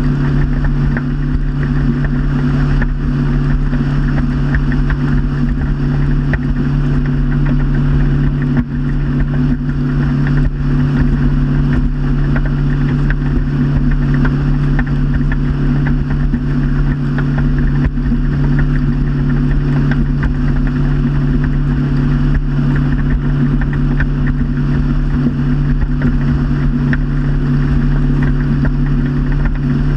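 Motorboat engine running at a steady speed under way, a constant low drone with an even rush of water and wind noise over it.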